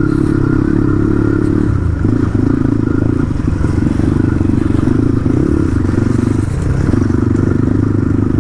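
Dirt bike engine running steadily under throttle as it is ridden, with brief dips in the engine note about two, three and six and a half seconds in.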